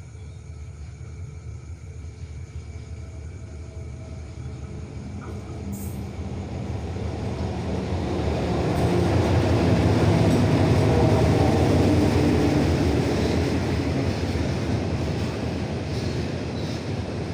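A State Railway of Thailand diesel train approaching and passing, its rumble and wheel noise building to a peak about ten seconds in, then easing off slightly near the end.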